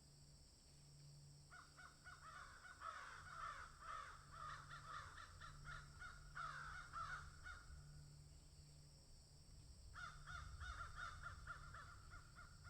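Birds calling in two bouts of rapid, harsh, repeated calls: the first starts about a second and a half in and stops around eight seconds, and the second starts again near the end.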